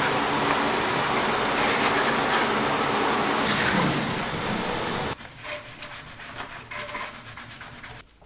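Water running steadily from a tap as the soldered stained-glass piece is washed. It stops abruptly about five seconds in, giving way to quieter, rapid rubbing strokes on the glass.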